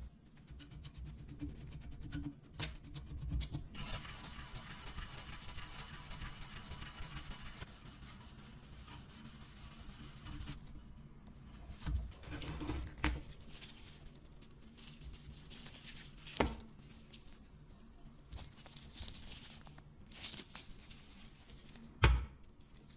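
Workshop handling noises from hand work on a metal blade: a steady hiss for several seconds and scattered sharp knocks and clicks, the loudest a single knock near the end.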